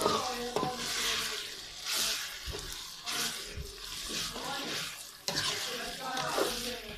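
Onions and ground spices frying in oil in a metal karahi, sizzling, while a spatula stirs and scrapes them around the pan in strokes about once a second. This is the masala being browned for a bhuna.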